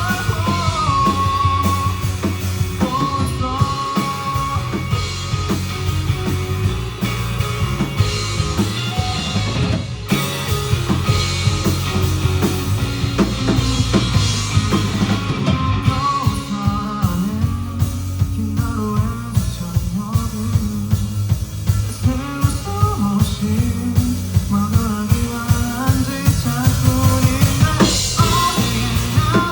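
Rock band playing live: drum kit driving a steady beat under a sung melody.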